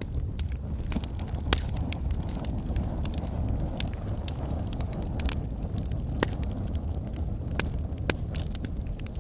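Logs burning in a fireplace: a steady low rumble of the flames with irregular sharp crackles and pops.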